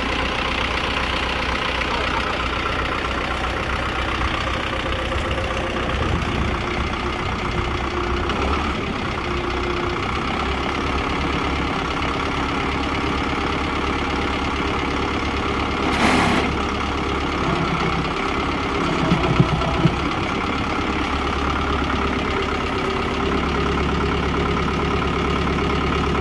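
Kubota M6040SU tractor's diesel engine running steadily. A brief rush of noise comes about two-thirds of the way through, followed by a few sharp knocks, and the engine's low note grows stronger near the end.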